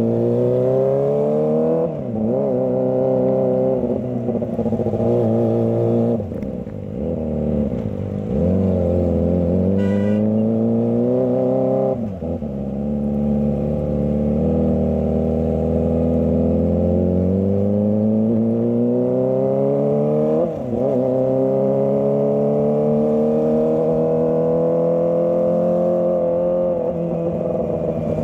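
Kawasaki ZX25R's 250 cc inline-four engine pulling through the gears in stop-and-go riding. Its pitch climbs steadily, then drops sharply at each shift or throttle lift, several times over.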